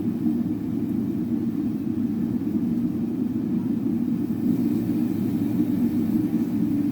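Steady low rumble that holds even throughout, with no hammer strikes.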